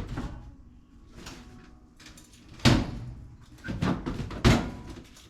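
Knocks and clunks of hard objects being handled, with two sharp, loud strikes about two and a half and four and a half seconds in and quieter rattling between.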